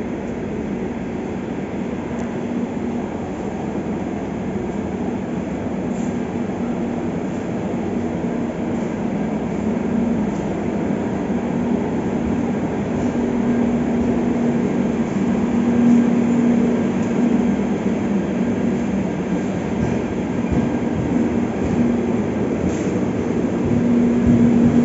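Humsafar Express passenger coaches rolling past along the platform as the train pulls out, a steady rumble of wheels on rails growing slowly louder, with a humming tone that comes and goes and a few faint clicks.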